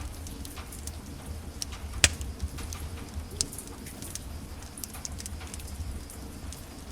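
Wood fire in a fireplace crackling: a low steady rumble with scattered small snaps, and one sharp pop about two seconds in.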